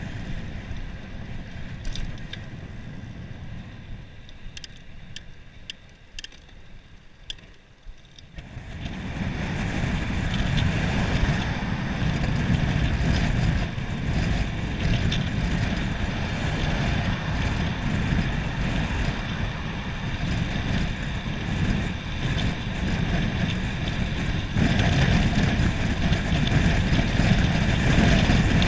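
Wind rushing over the microphone of a bicycle descending a hill, with tyre noise. For the first few seconds it is a fairly quiet rumble with a few clicks. Then, about eight seconds in, it swells into a loud, steady roar as the bike picks up speed, and it grows louder again near the end.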